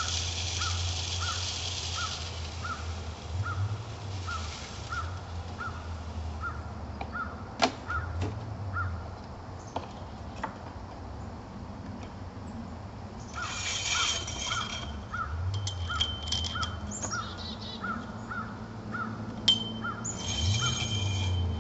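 Birdseed poured into a feeder in rattling, hissing spurts, with a few sharp clicks of handling. Behind it a bird calls in a steady series of short high pips, about two to three a second.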